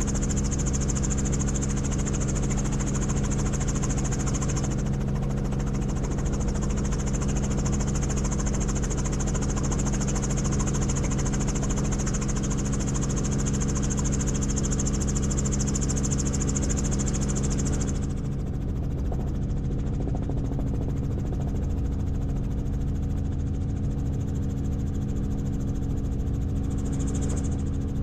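Helicopter in flight: a steady engine and rotor drone with a high whine over it. About 18 seconds in the whine and the upper hiss drop away and the sound becomes slightly quieter.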